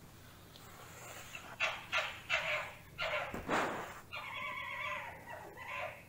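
Fennec fox calling: a quick series of short, high yips, then a longer whining call about four seconds in.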